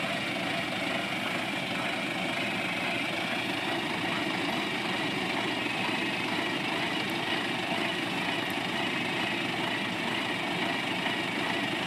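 Engine running steadily at a constant idle, with no change in speed.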